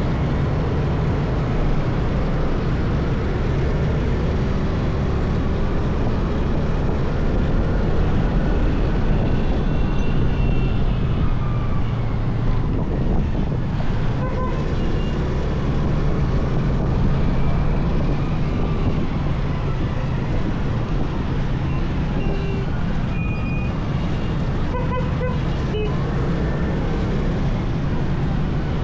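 Motorcycle ride: the bike's engine runs under wind and road noise, its pitch rising and falling as the rider speeds up and slows, with city traffic around. A few short beeps come about halfway through and near the end.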